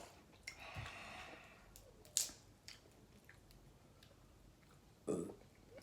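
Eating sounds up close to the microphone: snow crab legs being handled and broken open, with a single sharp crack of shell about two seconds in, and some chewing.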